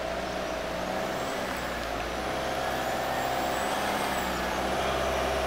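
A vehicle engine running steadily, with a low hum and a slightly wavering tone over it.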